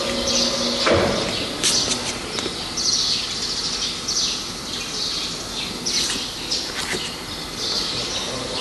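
Small birds chirping over and over, short high calls every half second or so, with a few sharp knocks and clicks. A steady low hum stops with a knock about a second in.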